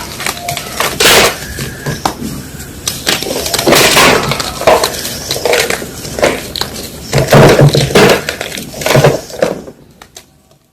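Close-up crunching of gym chalk, a dense run of sharp cracks and crackles that thins out near the end.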